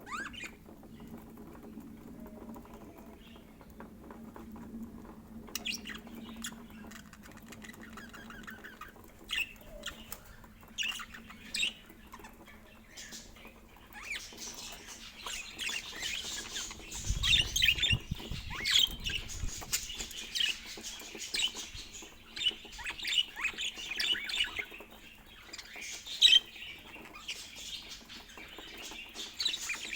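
Pet budgerigars chirping and chattering, sparse at first and becoming busy and continuous from about halfway. A brief low rumble a little past halfway.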